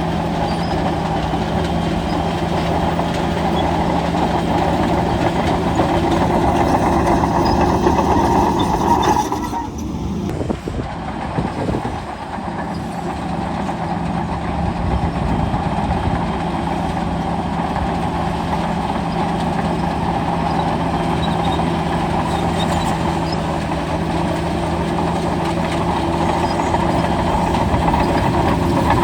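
Bulldozer's diesel engine running steadily under load, with its steel tracks clattering; the sound drops briefly about ten seconds in, then carries on.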